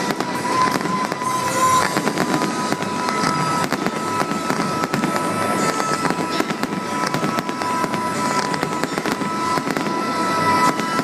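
Fireworks going off in rapid succession, with many sharp bangs and crackles throughout, over loud show music holding two long, steady high notes.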